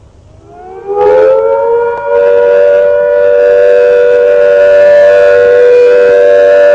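Civil defence air-raid siren winding up in pitch and then holding a long steady note: the all-clear signal that the danger has passed.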